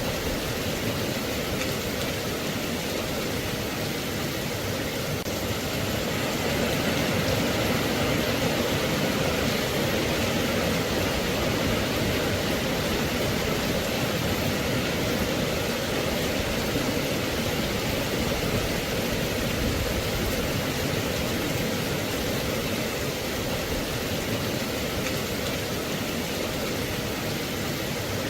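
Steady rain falling: an even hiss of many small drops, a little louder from about a quarter of the way in.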